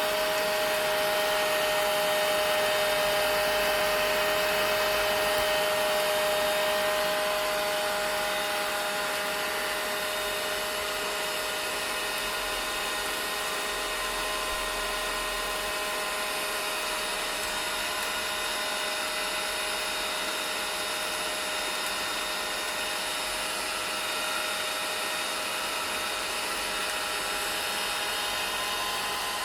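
Vacuum cleaner running steadily: a continuous motor whine with a steady hum under an even hiss of rushing air.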